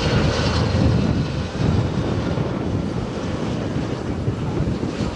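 Jet aircraft engine rumble, loud and steady, with a high engine whine that fades in the first second or so. Wind buffets the microphone.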